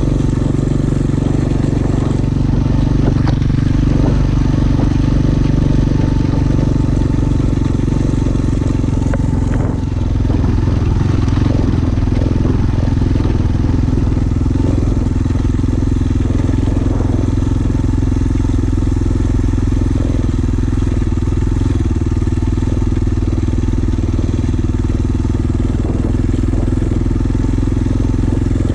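Small dirt bike engine running steadily while riding, with a brief dip in level about a third of the way in.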